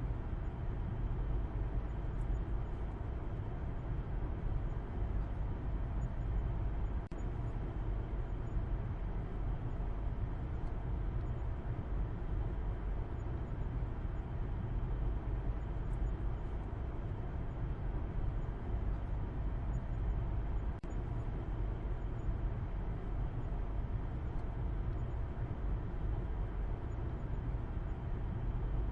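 Car driving at a steady speed: continuous low rumble of engine and road noise with no change in pace, briefly dipping twice for an instant.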